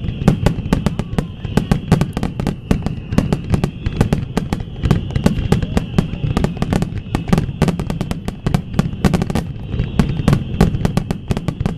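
Fireworks going off in a dense, continuous barrage: many sharp bangs a second, one after another without a pause.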